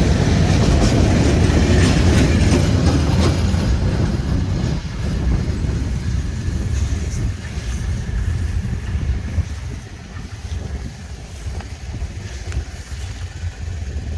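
Train rolling past, wheels clacking over the rail joints, its low rumble fading as it moves away.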